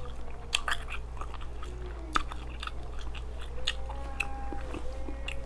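Close-miked biting and chewing of a crispy deep-fried rib: irregular crunches and wet mouth clicks, over a low steady hum.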